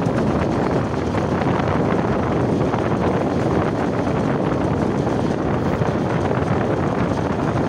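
Train running steadily along the track, heard from an open carriage window: a continuous rumble of wheels and carriage mixed with wind buffeting the microphone.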